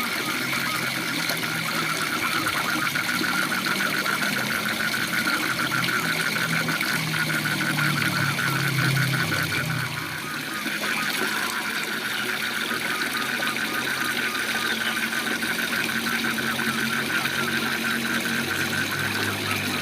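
A waterfall rushing steadily, with frogs calling over it: a low croaking chorus and a fast, high trill that fades about halfway through.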